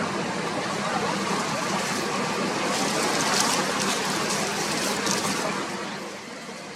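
Strong wind rushing over the microphone, with a steady low hum of a boat engine underneath. The rushing is strongest in the middle and eases near the end.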